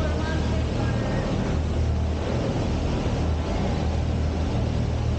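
Steady low mechanical hum and rumble with a wash of noise over it, and a few faint voices.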